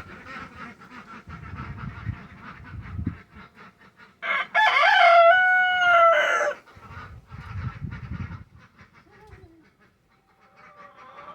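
A rooster crows once, loudly, for about two seconds, a little over four seconds in, over a steady background of hens clucking and chattering.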